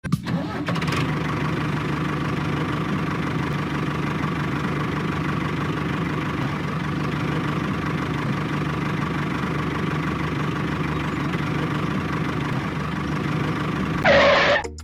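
An engine running steadily at a constant speed, with a brief louder burst of noise just before it ends.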